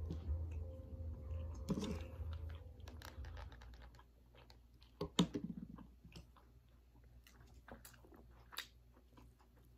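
Close-up chewing of a mouthful of spicy instant noodles: soft wet mouth clicks and smacks throughout, with a louder mouth sound about five seconds in.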